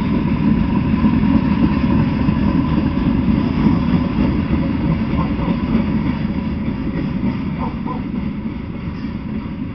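Freight train of open-top coal cars rolling past: a steady low rumble of steel wheels on rail, easing off slightly near the end.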